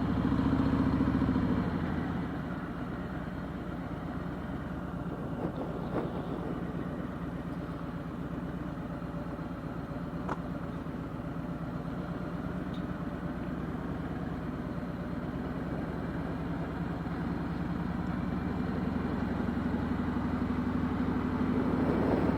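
Motorcycle engine running at low speed, a steady pulsing exhaust. It is louder for the first couple of seconds, eases off, then builds again toward the end as the throttle opens.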